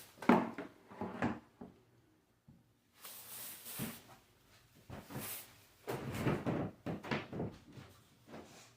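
A series of irregular knocks and scraping or rustling sounds of objects being handled, with a sharp knock just after the start.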